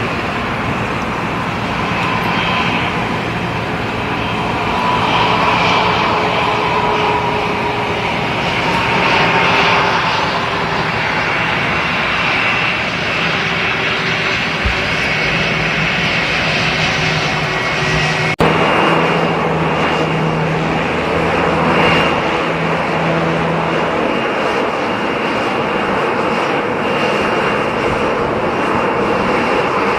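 Airliner engines running with a loud, steady rush and a high whine. The sound changes abruptly about two-thirds of the way through.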